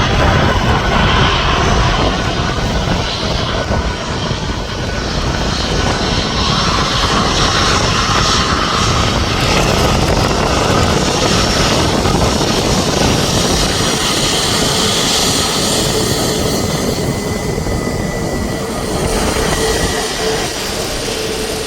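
Airliner engines running loud and steady, with a few thin whining tones over a dense rush, mixed with wind buffeting the microphone; the sound eases slightly near the end.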